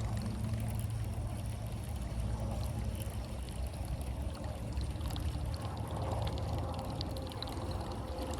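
Water trickling and splashing close against a kayak, over a steady low rumble, with light ticking in the last few seconds.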